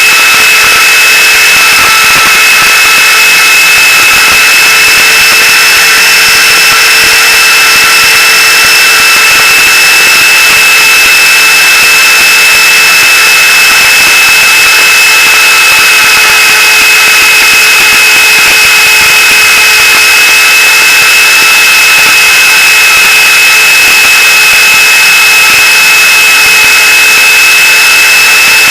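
Gaui Hurricane 425 electric RC helicopter running: a steady, high-pitched whine from the motor and drive gears over rotor noise, its pitch holding almost constant.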